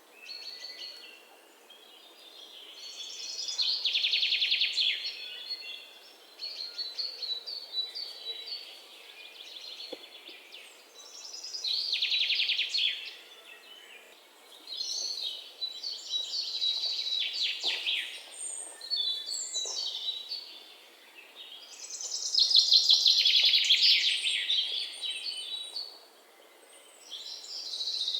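Songbirds singing: loud, fast trilled songs recur about five times, several seconds apart, with softer chirps between them.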